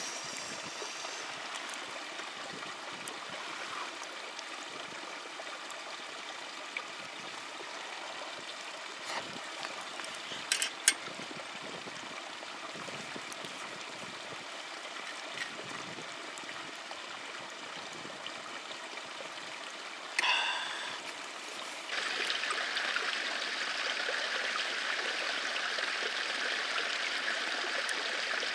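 Steady rush of flowing water, like a stream, with a few small sharp clicks. About three-quarters of the way in, the rush steps up louder and brighter.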